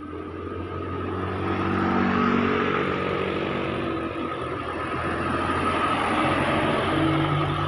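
Road traffic: a motor vehicle's engine running close by, growing louder over the first two seconds and then staying loud, its pitch shifting slightly.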